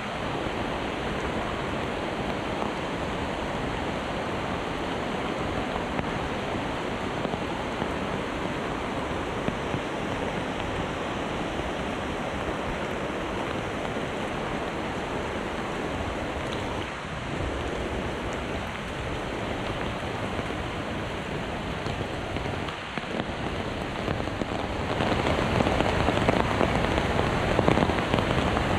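Heavy rain falling steadily, growing noticeably heavier and louder near the end.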